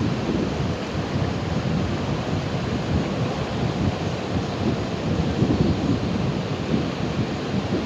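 Ocean waves washing on the shore in a steady, continuous surf, heaviest in the low rumble.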